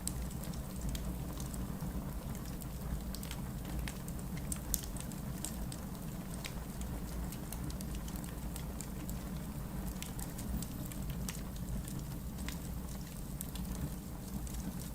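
Wood logs burning in a fireplace, crackling: scattered sharp pops and snaps over a steady low rumble, with one louder pop about five seconds in.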